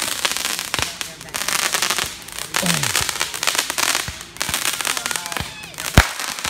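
Fireworks crackling in runs of rapid pops, about a second each with short gaps between, and one sharp loud bang about six seconds in.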